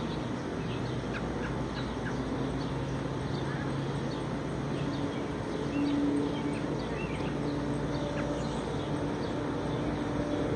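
Small birds chirping repeatedly in short, scattered calls over a steady low hum.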